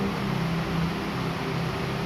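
Steady rain hiss with a low, even hum underneath.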